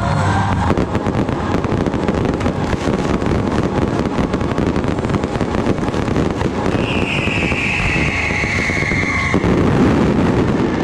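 Fireworks crackling in a dense, unbroken rattle of small bangs. About seven seconds in, a high whistle sounds over it, falling slightly in pitch and lasting about two and a half seconds.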